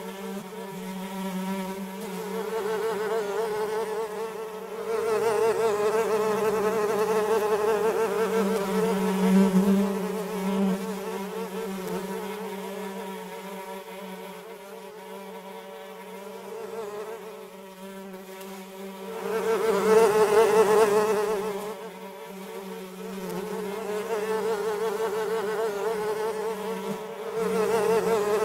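Flies buzzing in flight, a steady drone that swells and fades in loudness, loudest about two-thirds of the way in.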